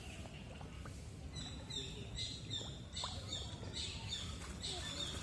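A bird chirping over and over, short high falling chirps about twice a second, starting about a second in, over a steady low background noise.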